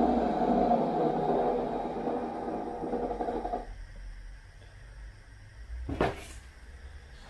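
Wet vacuum cleaner motor running steadily, then switched off and dying away about three and a half seconds in; a single knock follows about six seconds in.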